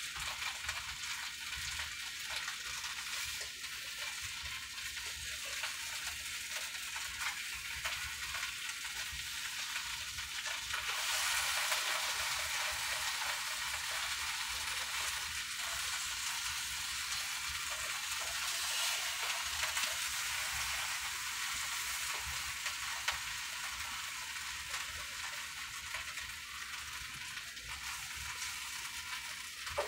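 Folded tortillas filled with steak and cheese sizzling in a frying pan, a steady hiss that swells louder about a third of the way through.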